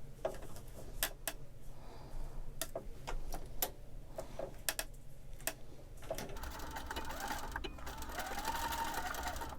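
Sharp scattered clicks for the first six seconds, then a sewing machine runs steadily, stitching the hook side of a Velcro strip onto fabric. Its motor note rises and falls briefly near the end.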